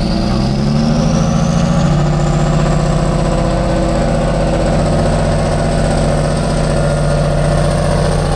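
Heavy truck's diesel engine revving up over the first couple of seconds, then holding a steady high speed under load, with a high whine that rises alongside it and then holds.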